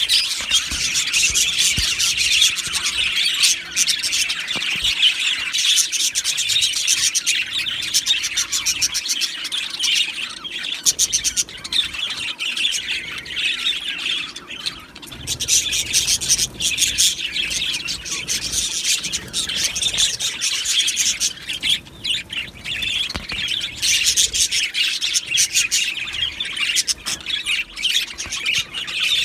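A flock of budgerigars chirping and warbling together in a constant chatter, with occasional harsher squawks; the chatter thins briefly near the middle.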